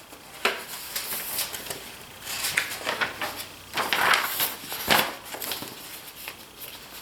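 Handling noise: a string of light clicks, taps and rustles, the densest and loudest about four to five seconds in.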